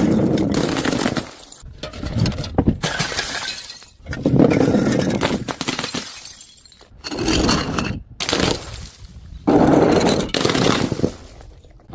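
Glass bottles shattering one after another, about five separate crashes in all, each a sudden smash followed by about a second of breaking glass.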